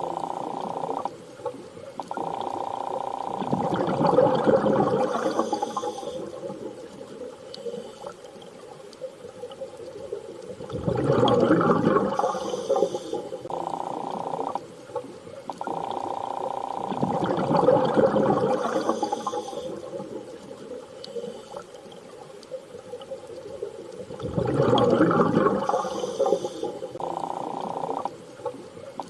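Underwater sea ambience: muffled surges of moving water about every six to seven seconds, with a steady hum that comes and goes between them.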